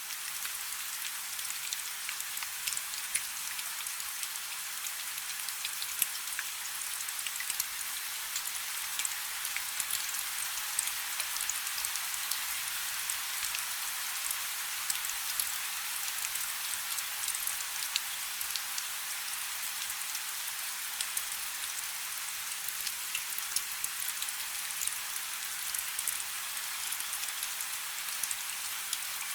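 Light rain falling steadily, a soft even hiss with many small drops pattering on a surface.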